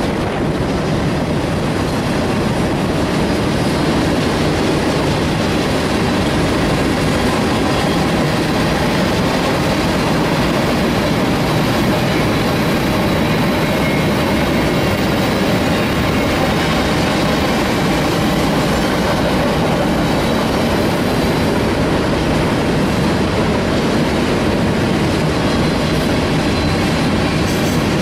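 Cars of a mixed freight train rolling steadily across a steel deck-girder bridge: a continuous rumble of steel wheels on rail.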